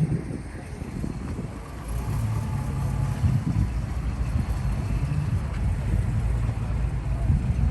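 A car engine running at a low rumble that gets louder about two seconds in.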